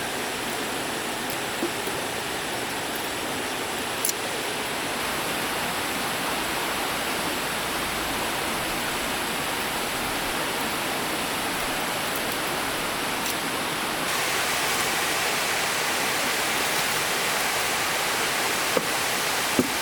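Rushing stream water: a steady wash of noise that turns a little louder and brighter about two-thirds of the way through, with a few light knocks.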